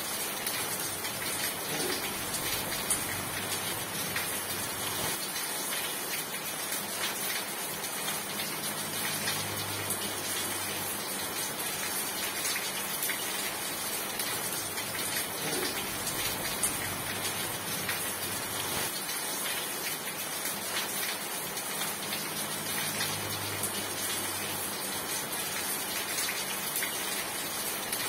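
Steady rain falling: a dense, even hiss of drops on surfaces that holds the same level throughout.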